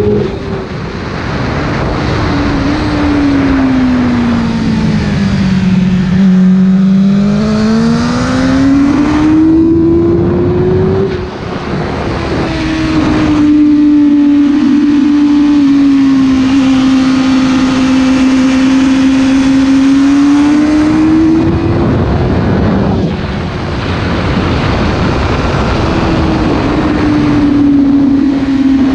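Sport motorcycle engine heard from onboard at high revs on a race track, its pitch sinking through a corner and climbing again, with quick drops as the rider shifts or rolls off near the start, around eleven seconds and around twenty-two seconds. Heavy wind rush on the microphone runs under it.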